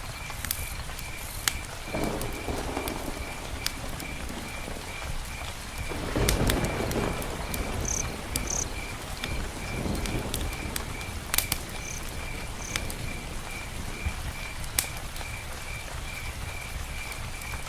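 Rain falling steadily, with a high chirp repeating about three times a second and scattered sharp clicks. Low rumbles swell up and fade three times, the strongest about six seconds in.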